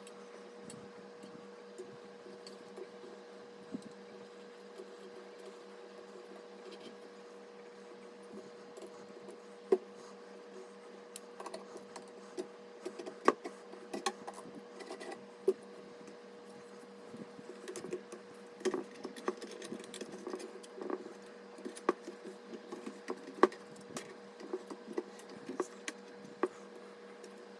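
Scattered sharp clicks and light knocks of PC components and tools being handled, coming more often from about a third of the way in, over a steady faint hum.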